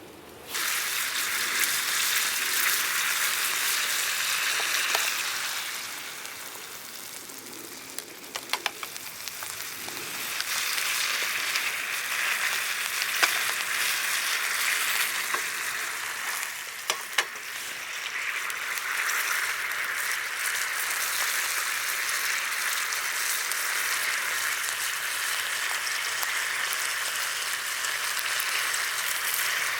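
Food frying in a pan, a steady sizzle that starts suddenly, with a few sharp pops along the way.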